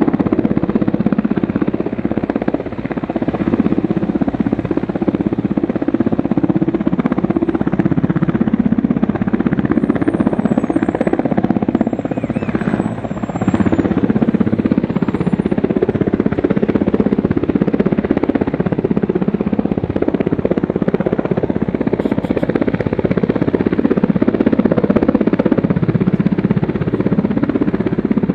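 Helicopter's engine and rotor running steadily and loudly.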